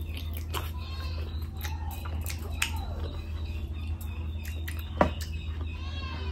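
Close-miked wet chewing and mouth clicks as mutton curry is eaten off the bone, with one sharper smack about five seconds in, over a steady low hum.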